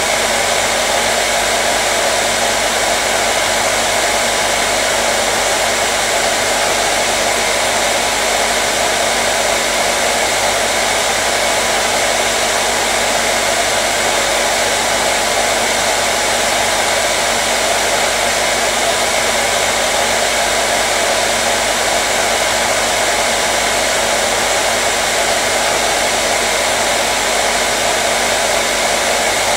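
Hair dryer running continuously at a constant setting: a steady, loud, even whoosh of blown air with a faint motor hum underneath, used as white noise.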